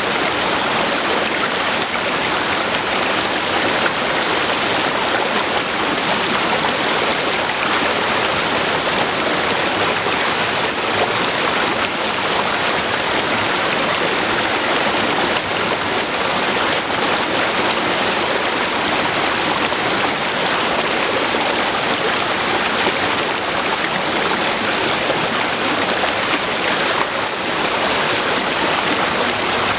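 River water flowing over rocks: a steady, dense rush of moving water with no breaks or changes.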